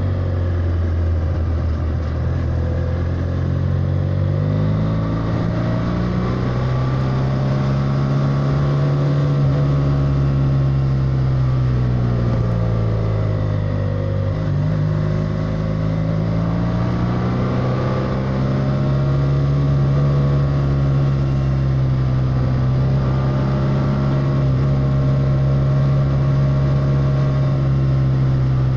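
BMW F800R's parallel-twin engine pulling the bike through bends, its note rising a few seconds in, easing off around the middle, then climbing again and holding steady.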